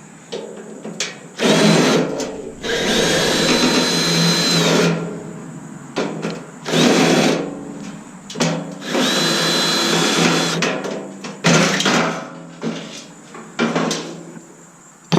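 Power drill running in about six bursts, two of them a couple of seconds long, its motor whining steadily, as it backs screws out of a coffee maker's sheet-metal housing.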